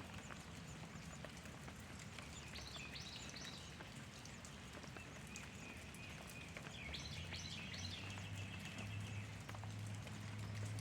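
Faint small-bird chirps in two short bursts over a steady, quiet outdoor background; a low steady hum comes in about two-thirds of the way through.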